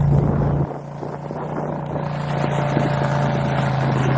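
ATV engine running with a steady hum. It drops off sharply under a second in, then builds back up as the quad works through mud and slush.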